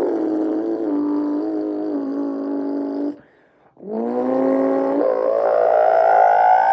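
A man's voice imitating a Pagani Zonda Cinque's V12 engine: a held note that drops in small steps like gear changes, a short break for breath about three seconds in, then a long rising rev that climbs steadily in pitch.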